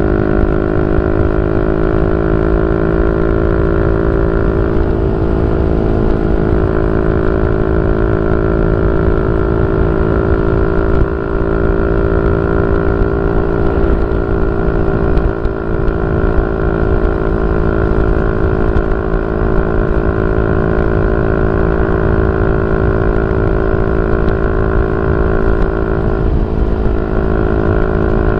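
Yamaha Y15ZR's 150cc single-cylinder four-stroke engine breathing through a YYPANG SD3 aftermarket exhaust, running loud and steady at a held engine speed. The pitch eases up slightly over the first few seconds, then holds.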